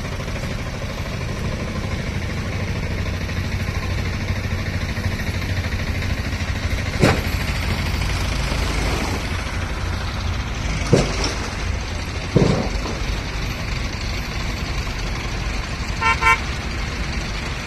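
Road traffic running steadily past, with a few sharp knocks in the middle and two short horn toots near the end.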